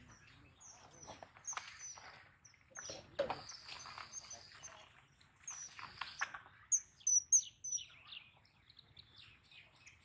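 Small birds chirping in short, high calls, with the loudest a quick run of chirps about seven seconds in. Several brief bursts of noise come in the first six seconds.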